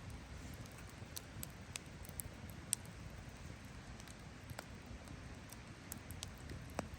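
Wood campfire crackling: scattered sharp pops and ticks over a low, steady rush, with the loudest pop a little before the three-second mark.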